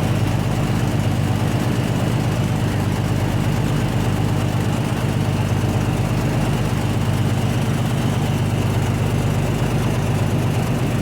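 Steady, loud drone of a large running machine, pulsing rapidly and evenly without change.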